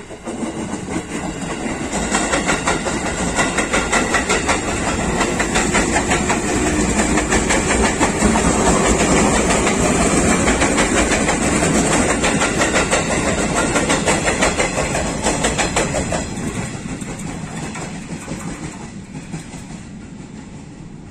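KRL Commuterline electric commuter train passing close by: it grows louder as it approaches, runs loudest for several seconds with a fast run of wheel clicks over the rail joints, then fades as it moves away.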